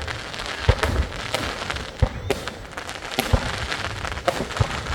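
Fireworks going off: a quick, irregular run of sharp bangs, about two a second, over continuous crackling.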